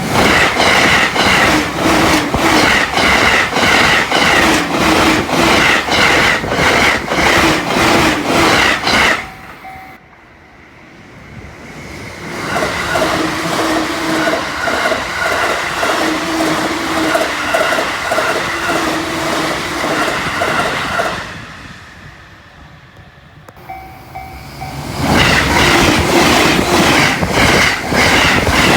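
Electric trains passing at high speed, over 120 km/h, three passes in a row, each a rapid, rhythmic clatter of wheels over rail joints. The first is very loud and cuts off abruptly about nine seconds in. A somewhat quieter pass follows from about twelve seconds in and fades away. A third loud pass comes in near the end.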